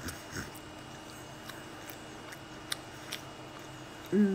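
Quiet chewing with faint mouth clicks and ticks, then a short closed-mouth "mm" hum near the end.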